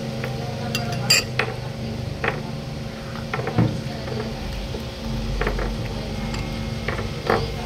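Scattered clinks and knocks of utensils against dishes during a meal, a handful of separate short strikes over a steady low hum.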